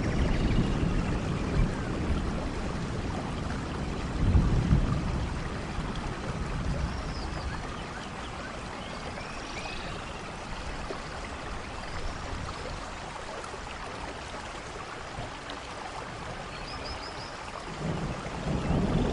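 Steady rain falling, with low rumbles of thunder about four seconds in and again building near the end.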